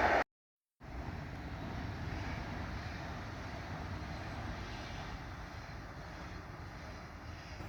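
A cut between clips with a moment of dead silence, then the steady low rumble of a distant train.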